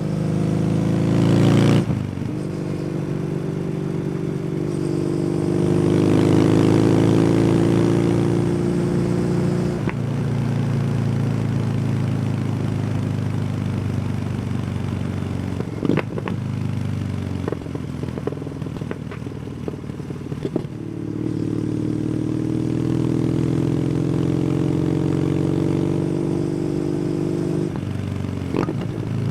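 Kawasaki W800's air-cooled parallel-twin engine through an SC Project exhaust, ridden on the road: the engine note climbs slowly as it pulls through the gears, with breaks at the gear changes. Around the middle, the throttle eases off and there is a cluster of sharp cracks from the exhaust.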